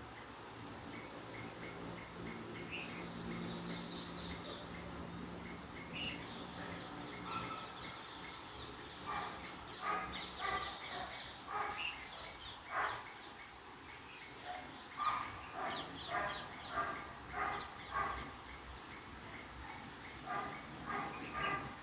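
Birds calling with short, repeated chirping calls over a low background hiss. The calls grow busier from about nine seconds in.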